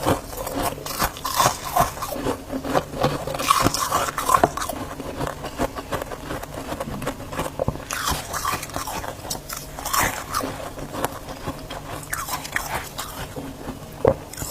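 Freezer frost being bitten and chewed close to the microphone: a dense, irregular run of crisp crunches.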